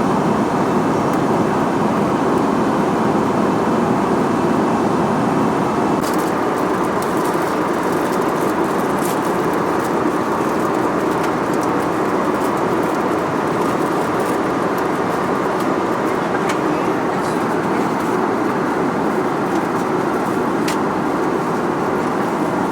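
Airbus A320-200 cabin noise in cruise: a steady rush of airflow and engine drone, with a few faint light clicks from about six seconds in.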